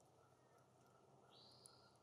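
Near silence, broken by one faint, thin, high bird call that starts a little past halfway and lasts about half a second.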